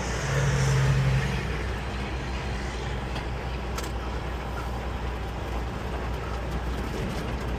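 Peterbilt 389 semi truck's diesel engine running with a steady low drone, a hum riding on it louder for about the first second. A single faint click near the middle.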